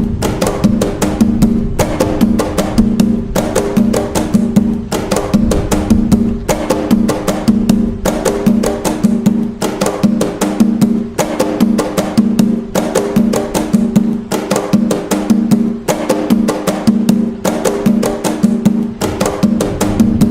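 Atabaque hand drums playing the nagô rhythm (toque nagô) of Umbanda, a continuous, steady repeating pattern of sharp pitched strokes.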